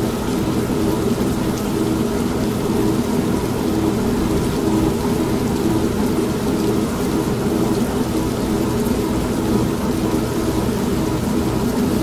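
Old non-automatic washing machine running with a steady hum, mixed with steady rain and a low rumble of thunder.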